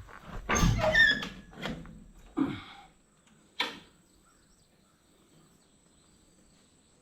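A door opening with a short falling squeak and shutting with several thunks, all within the first four seconds.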